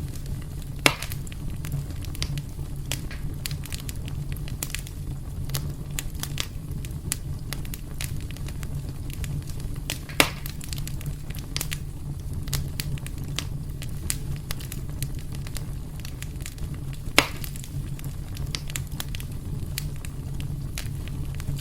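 Wood fire burning in a fireplace: a steady low rumble with constant small crackles, and three loud sharp pops, about a second in, near the middle and a few seconds before the end.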